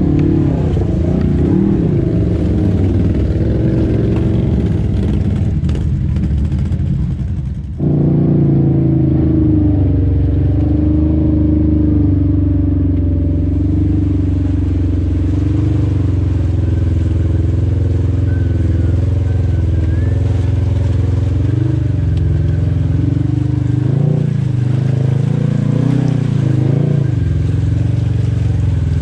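Side-by-side UTV engines running hard, with an abrupt change in the engine sound about eight seconds in. Near the end the revs rise and fall a few times.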